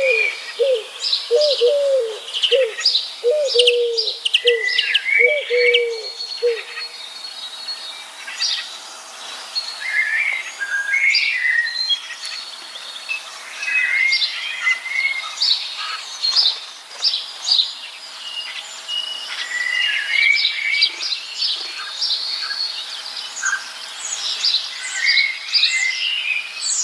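Several birds chirping and calling at once, with quick, high chirps and short trills throughout. Over the first seven seconds a lower call repeats about twice a second underneath them, then stops.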